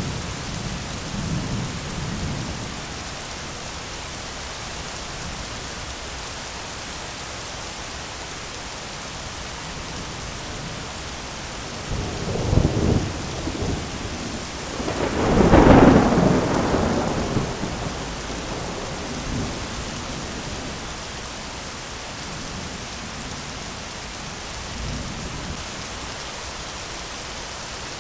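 Thunderstorm: steady rain hissing, with low thunder rumbling near the start. A crack of thunder comes about twelve seconds in, then a louder peal a few seconds later that rolls off over a couple of seconds, with fainter rumbles after it.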